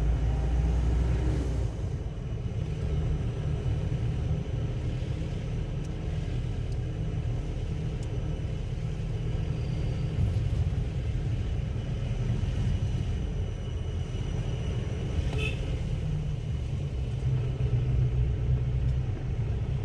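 Steady low rumble of a car on the move, engine and road noise, with no clear changes.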